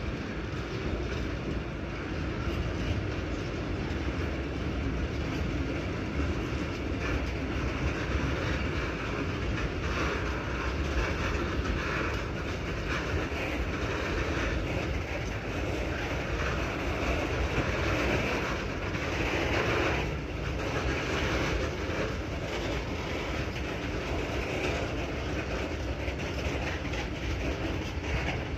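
A train rolling past on the track: a steady rumble of wheels on rail with clicking as the wheels cross the rail joints.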